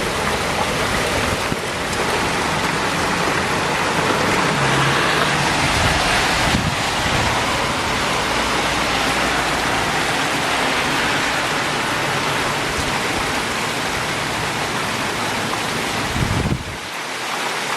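Heavy rain falling in a storm: a steady, dense hiss, with a low rumble underneath that drops away near the end.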